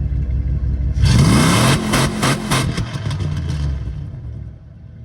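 Car engine idling, then revved hard about a second in, its pitch rising and a loud exhaust blast holding for a couple of seconds before it settles back down.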